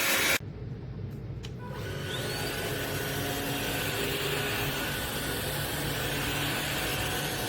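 A vacuum cleaner runs loudly and cuts off abruptly about half a second in. Then a vacuum motor spins up, its whine rising over about a second, and settles into steady running.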